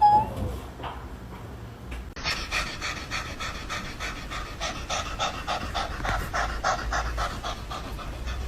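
A pet panting rapidly, about three quick breaths a second, starting about two seconds in. A short rising call comes right at the start.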